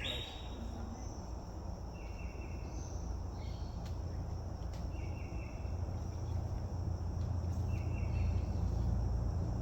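Insects calling in a forest chorus: a short buzzy call repeating about every two and a half seconds over a steady high trill, with a low rumble that grows louder in the second half.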